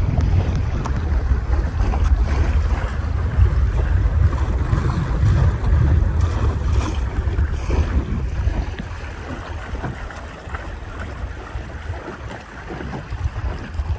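Wind buffeting the microphone over water rushing and splashing along the hull of a sailing dinghy under way. It eases for a few seconds about eight seconds in, then builds again near the end.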